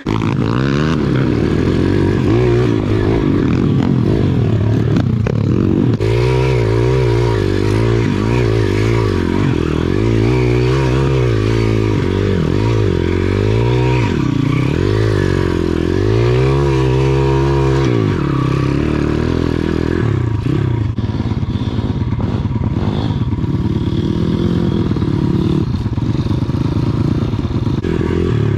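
Pit bike's small single-cylinder four-stroke engine revving up and down over and over as it is ridden on a rough trail, with clattering from the bike over the ground.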